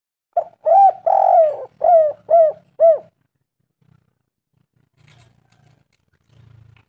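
Spotted dove cooing: one phrase of about six hollow coos over three seconds, a longer rolling coo near the start and three short coos at the end.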